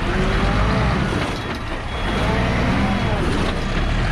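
Car engine revving up and dropping back twice over a steady low rumble, as a stuck car tries to drive free.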